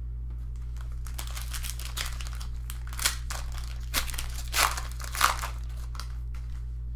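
A trading card pack wrapper being torn open and crinkled by hand: a run of crackling, with a few sharper rips about three, four and a half, and five seconds in.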